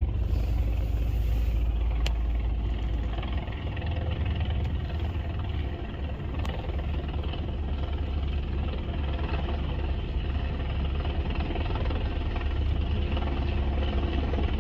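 Helicopter engine and rotor running steadily, with a heavy low rumble of wind on the microphone.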